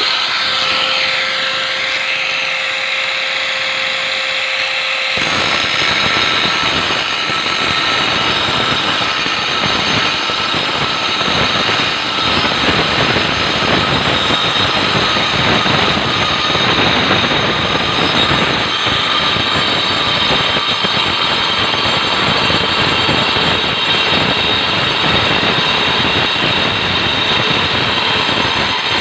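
JCK grinder running with a steady whine and no load, then from about five seconds in cutting into ceramic with a loud, harsh grinding noise that holds steady throughout the cut.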